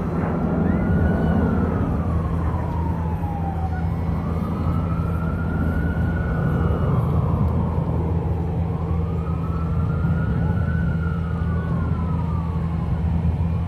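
Emergency vehicle siren in a slow wail, rising and falling about three times, over a steady low rumble.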